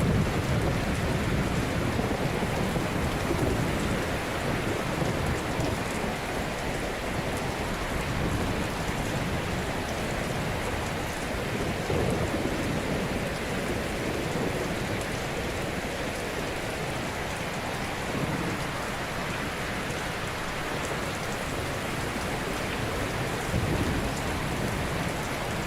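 Ocean surf washing onto a shore in a steady rush of noise, rising slightly about every twelve seconds as waves break.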